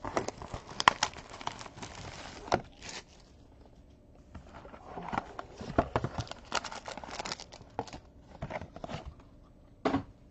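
Packaging crinkling and rustling as trading cards and their wrappers are handled, with scattered sharp clicks and taps and a short quieter lull partway through.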